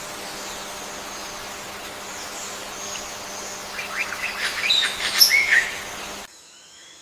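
Birdsong in forest ambience: a bird gives a quick run of sharp chirps and whistled notes in the second half, over faint distant high whistles. Near the end the sound cuts off abruptly to a quieter, different ambience.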